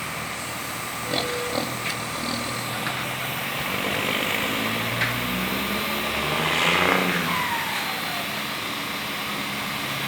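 Iveco truck diesel engine with a modified turbocharger running, a steady turbo whistle over the engine. The engine is revved up to a peak about seven seconds in, then the whistle falls in pitch as the turbo spools down.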